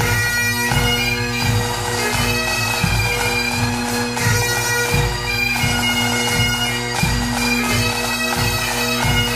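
Bagpipe music: steady drones under a chanter melody, with a drum beating about once every three-quarters of a second.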